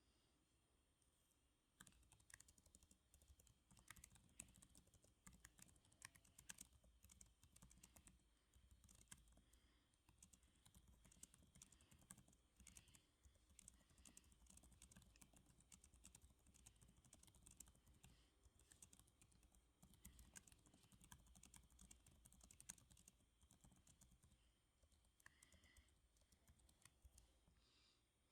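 Quiet typing on a computer keyboard: a continuous, irregular run of key clicks that starts about two seconds in.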